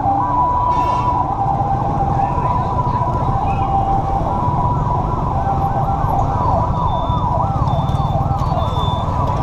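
Several fire engine sirens sounding together as the convoy passes: a hi-lo two-tone alternating about once a second overlaps fast rising-and-falling yelp sweeps from other trucks, over the steady rumble of engines and traffic.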